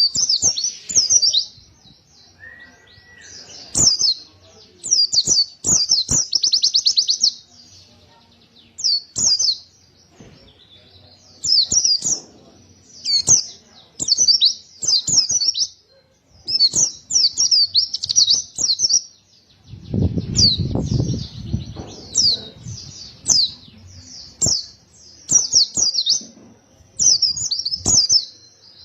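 White-eye (pleci) singing loudly in repeated bursts of rapid, high twittering phrases a second or two long, separated by short pauses. Scattered clicks and a brief low rumble about two-thirds of the way through.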